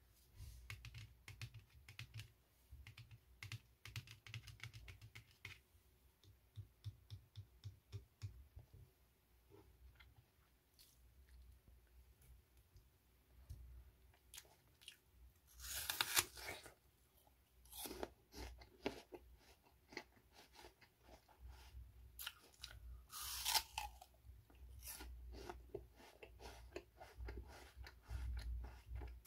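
Apple being bitten and chewed close to the microphone: quiet, repeated wet crunching and crackling. Two louder, longer noises come about halfway through and again past two-thirds through.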